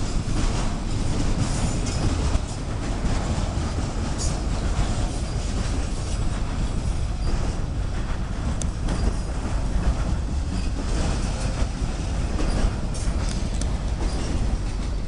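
Freight train rolling past: a steady rumble of cars on the rails, with a few sharp clicks from the wheels.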